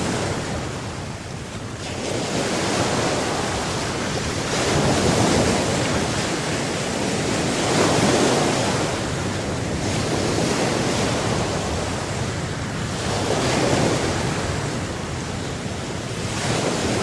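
Red Sea waves washing in, the surf swelling and falling back every three seconds or so, with wind on the microphone.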